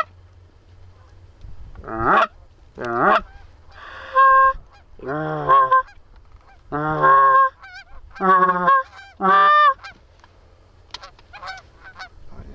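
Geese honking and clucking: a run of about eight loud calls, some jumping sharply up in pitch, followed by fainter calls near the end.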